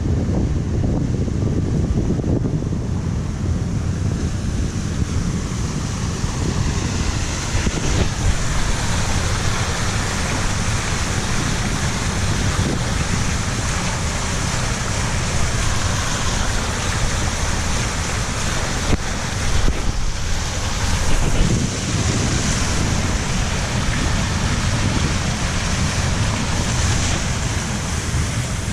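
Wind buffeting the microphone during a bicycle ride: a steady rushing noise with a heavy low rumble and hiss above it.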